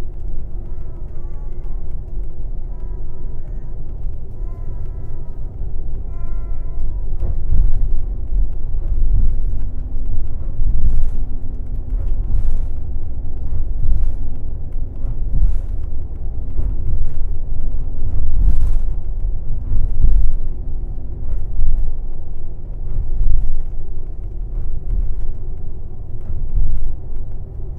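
Airport limousine bus under way, heard from inside the cabin: a steady low rumble of engine and road noise. A few short high squeaks come in the first six seconds, and then a run of knocks about every second and a half.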